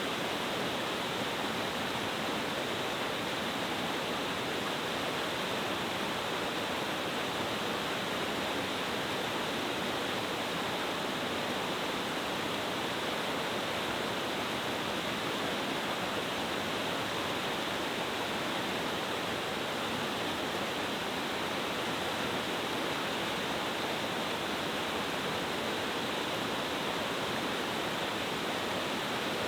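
A multi-tiered stream waterfall pouring over rocks: a steady, unbroken rushing of falling water.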